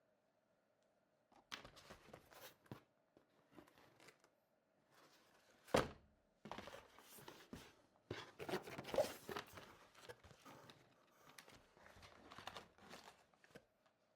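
Cardboard box and plastic packaging being handled and opened by hand: irregular rustling and light knocks, the loudest a sharp knock about six seconds in.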